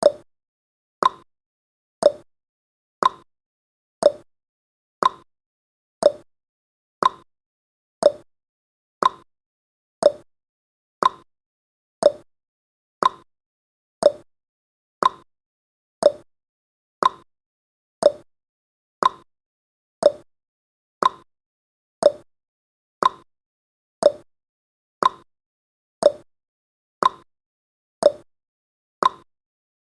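Countdown timer's clock-style ticking sound effect, one short tick each second, alternating between a lower and a higher tick like a tick-tock.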